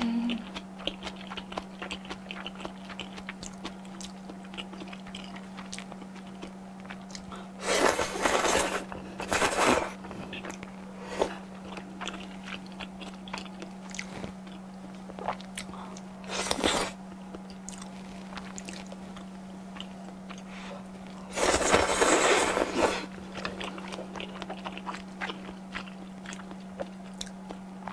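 Close-miked eating sounds: wet chewing with many small mouth clicks and several louder crunchy bites, the longest about two-thirds of the way through. A steady low hum runs underneath.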